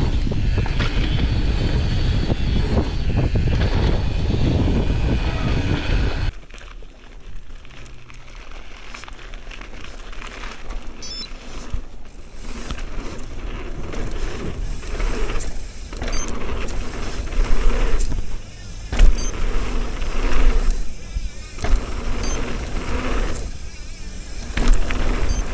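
Mountain bike riding down a rough dirt trail: wind rushing over an action camera's microphone, with tyre noise and the rattle and knock of the bike over bumps. The rush cuts off abruptly about six seconds in, after which the sound is quieter and made of uneven knocks and rattles.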